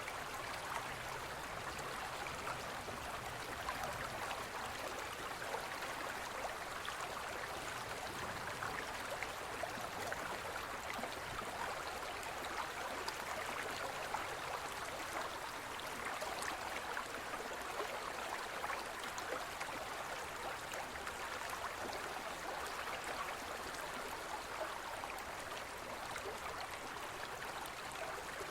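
Forest stream flowing steadily over rocks: a constant rushing babble with fine splashes and no break.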